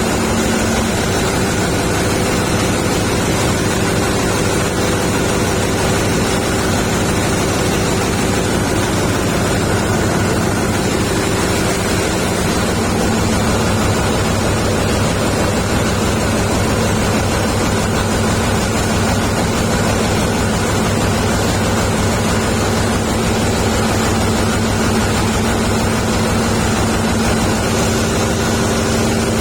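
Large dual-fuel power-plant generator engine running at a steady speed: a loud, even drone with a constant hum and no change in pace.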